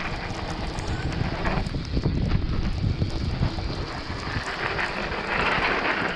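Wind buffeting the microphone while fat-bike tyres rumble and scrape over the icy, snow-covered downhill track at speed. A louder scraping hiss swells near the end.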